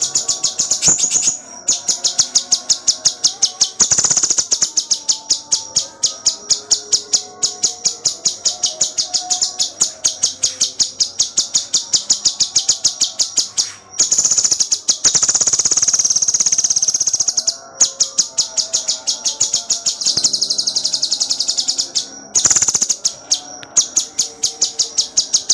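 Cucak cungkok singing non-stop in tight, rapid phrases: a string of sharp high chirps at about four or five a second, broken a few times by longer unbroken trills.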